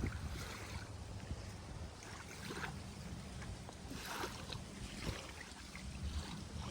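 Small ocean waves washing and lapping on a beach, with a soft rush every second or two over a steady low rumble of wind on the microphone.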